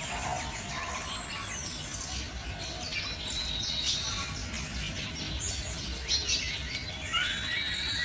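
Birds chirping and twittering: many short, high notes and quick sweeps, with a longer held whistle starting near the end.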